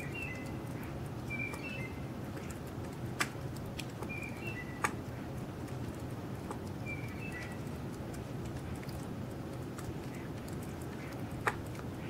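A bird calling in short, high chirps, mostly in pairs of a higher and a lower note, repeated several times over the first eight seconds. A few sharp clicks sound over a steady low background noise.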